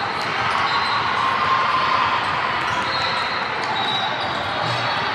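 Youth basketball game in a gym: the ball bouncing on the court and sneakers squeaking over a steady din of players and spectators.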